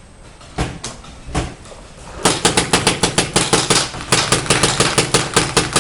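Paintball markers firing: three single shots, then a rapid string of shots at about eight a second from a little over two seconds in.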